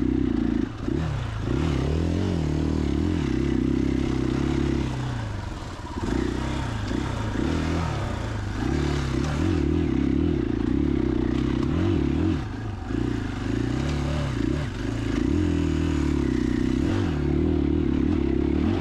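2021 KTM 500 EXC-F single-cylinder four-stroke dirt bike engine being ridden on a trail, its pitch rising and falling over and over with the throttle, easing off briefly about five seconds in.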